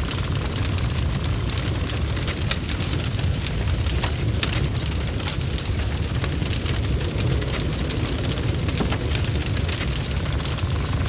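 Wood fire burning steadily with a low rumble and frequent sharp crackles and pops.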